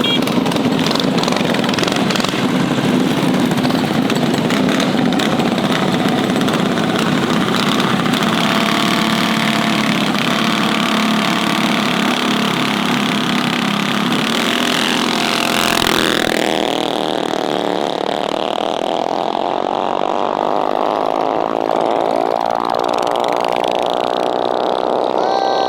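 Small mini bike engines running hard at high revs during a drag race, with a sweep in pitch about two-thirds of the way in.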